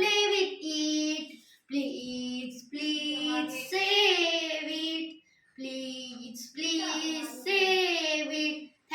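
A child singing alone without accompaniment, in phrases of held notes separated by short pauses.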